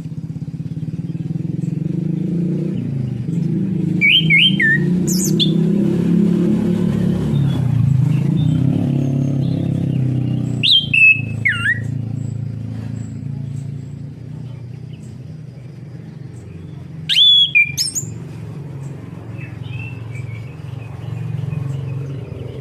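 Orange-headed thrush giving short, loud, sweeping whistled phrases three times, about four, eleven and seventeen seconds in. Under them the steady drone of an engine swells and fades.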